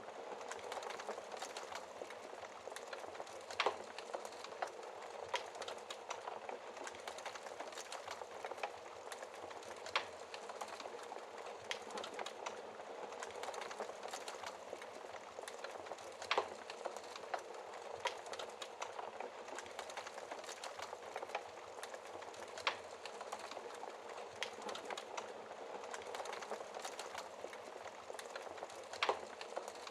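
Wood fire burning in a fireplace: a steady soft crackle with many small ticks and several sharp, louder pops spread through.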